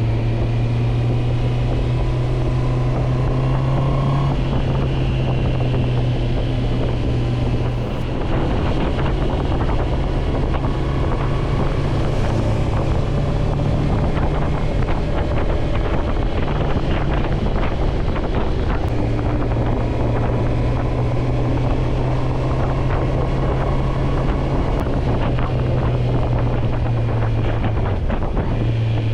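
Motorcycle engine running under way with wind rushing over the microphone; the engine note holds steady and shifts up and down a few times as the throttle and speed change.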